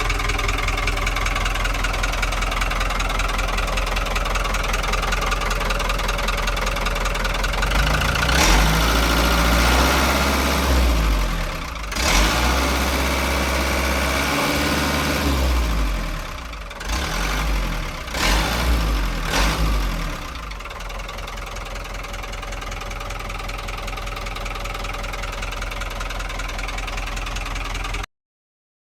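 Iveco Zeta 50.9 fire truck's diesel engine idling steadily, then revved up and held for several seconds about eight seconds in, blipped a few more times, and settling back to idle.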